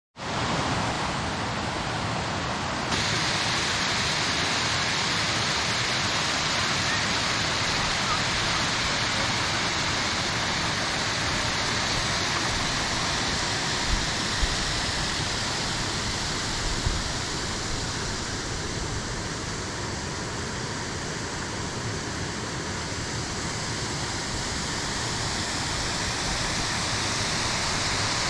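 Steady rush of a waterfall: an even, continuous noise of falling water.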